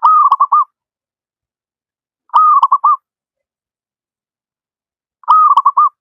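Zebra dove (perkutut) cooing three times, a couple of seconds apart; each phrase is a held note followed by three quick notes.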